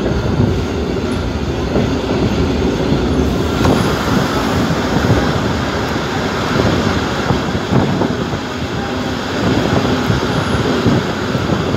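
Abu Qir suburban train running along the track, heard from on board as a loud, steady rumble of wheels on rail. About three seconds in, the noise grows harsher and higher.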